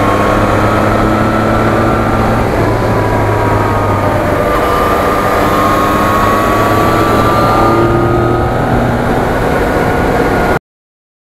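Yamaha MT-09 motorcycle engine running at a steady speed on the move, over a rushing haze of wind and road noise; its pitch drifts slightly up and down. Cuts off suddenly near the end.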